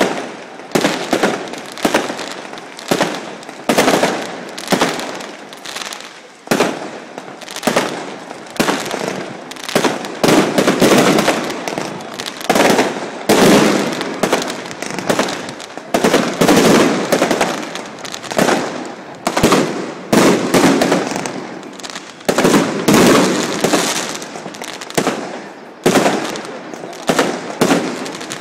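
Aerial fireworks shells bursting in quick succession, a sharp bang every second or so, each trailing off.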